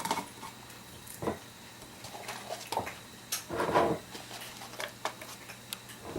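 Scattered light clicks and knocks of sliced cucumbers and vegetables being pushed and packed by hand into a jar, with a brief louder rustle a little past halfway.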